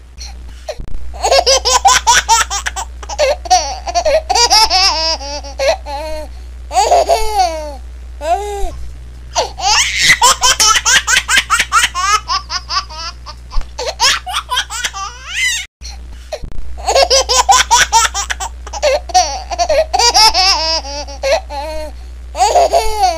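A laughing ringtone: high-pitched laughter in rapid, pulsing bouts of short bursts. It cuts out abruptly about two-thirds of the way through, then starts again as the tone repeats.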